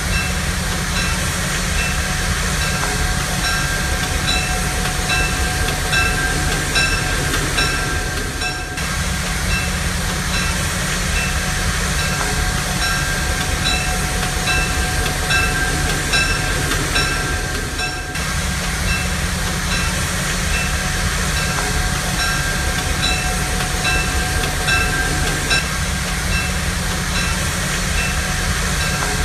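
Steady sound of a train running, with a rumble and a regular rhythmic clatter, repeating as a loop about every nine seconds.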